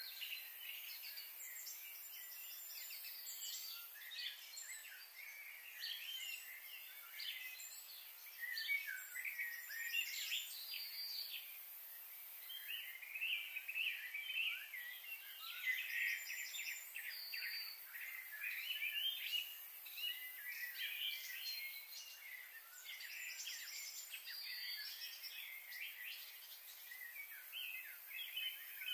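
Several small birds chirping and twittering in a busy, continuous chorus of short high calls, over a faint steady high hiss.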